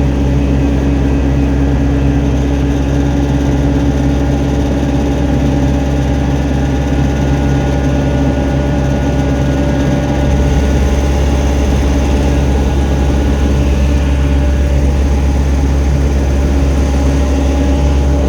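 Helicopter engine and rotor running steadily, a loud low hum that grows slightly stronger about ten seconds in.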